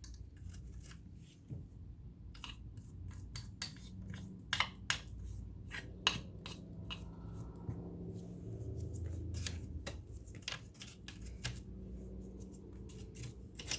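Irregular metallic clicks and taps from handling the parts of an all-metal Electra SX 4000 Super sewing machine during cleaning, over a faint low hum.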